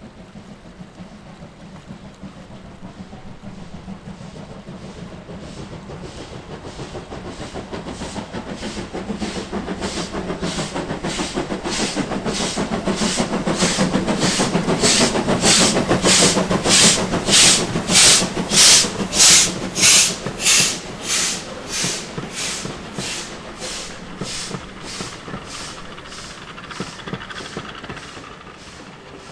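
Steam locomotive working a train past, its chuffing exhaust beats coming at an even pace. They grow steadily louder as it approaches, are loudest about two-thirds of the way through, then fade as it draws away.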